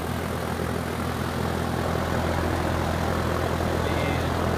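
Air conditioner outdoor condensing unit running steadily: the compressor's hum under the rushing noise of the condenser fan. The system is running on a new run capacitor while low on R-410A refrigerant.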